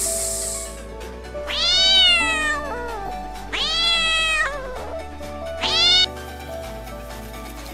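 A kitten meowing three times: two long calls that rise and then fall in pitch, then a short one, over soft background music.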